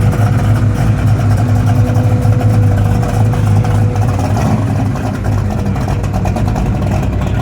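Car engine running at a low, steady idle, with a steady higher tone over the rumble for the first half that stops about halfway through.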